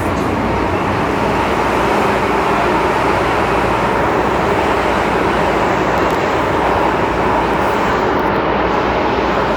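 Steady running noise heard inside a car of an MTR M-train, the Tsuen Wan Line's electric metro train, as it travels between stations.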